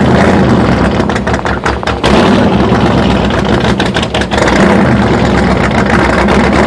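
Chevy S10 mud truck's engine running loudly and steadily.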